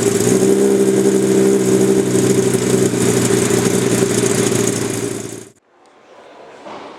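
V12 supercar engine idling steadily just after start-up, an even, unwavering note, then stopping abruptly about five and a half seconds in.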